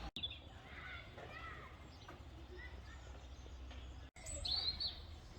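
Small birds chirping in short calls over a low steady background rumble, with the louder calls about four and a half seconds in. The sound cuts out briefly twice, about a split second in and about four seconds in.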